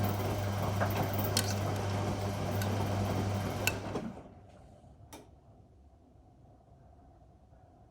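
Whirlpool Indiana 1400 washing machine running with a steady low hum and a rushing noise, which stop about four seconds in. A single click comes about a second later, then only a faint background.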